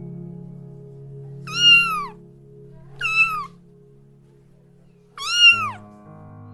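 An animal calling three times, each call short and pitched, rising then falling, over steady background music.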